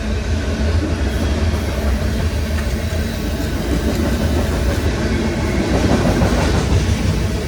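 Freight train rolling past: a steady rumble of the cars on the rails, swelling a little near the end.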